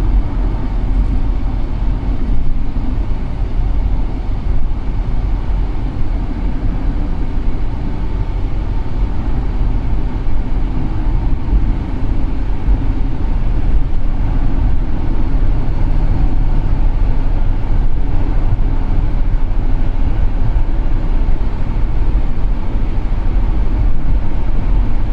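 2008 Cadillac SRX's 3.6-litre V6 and road noise heard while the car is driven on a test drive: a steady, loud running drone that gets a little louder about halfway through.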